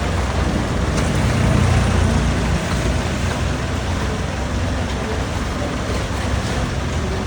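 Longtail boat engine running steadily under way, a loud low rumble that swells slightly about two seconds in.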